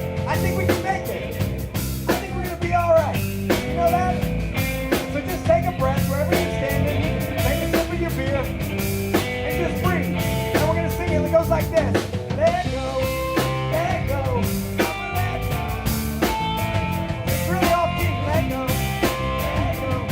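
Live rock band playing, with a drum kit keeping a steady beat under bass and melodic instruments.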